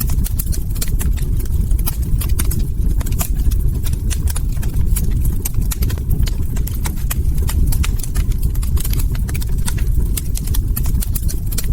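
Log fire crackling, with rapid irregular sharp pops and snaps over a steady low rumble of burning.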